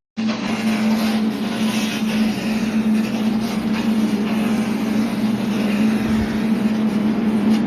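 A machine motor running at a steady pitch, a constant hum under a noisy whir.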